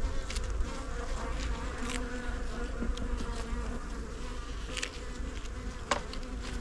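Honey bees buzzing around an open hive during a frame inspection, a steady hum with a few brief clicks.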